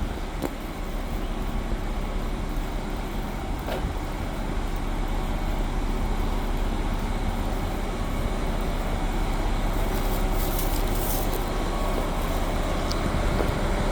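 Steady rumble of a diesel express train's engines idling at a station platform, with a brief hiss about ten seconds in.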